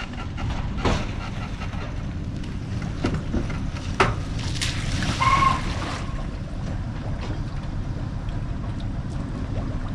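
Fishing boat's motor running steadily on the water, a low rumble with wind and water noise, broken by a few sharp knocks. A short high tone sounds about five seconds in.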